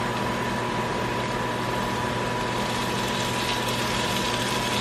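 Vegetables frying in a hot pan, a steady even sizzle under a constant mechanical hum with a faint steady whine.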